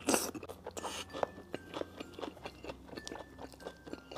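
Close-miked chewing of a mouthful of batter-fried chicken topped with a fried egg, with irregular soft crunches and wet clicks. The loudest moment is the bite itself, right at the start.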